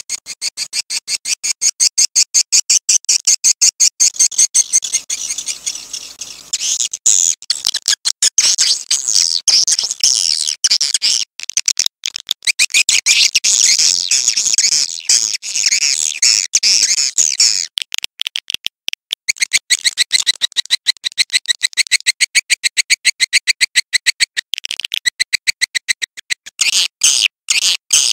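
Swiftlet calls played as a recording: rapid trains of high, twittering chirps at about nine a second, broken by short gaps.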